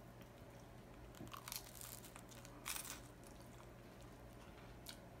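Faint biting and chewing of a roasted turkey avocado BLT sandwich close to the microphone, with a few short crunches, the clearest about halfway through.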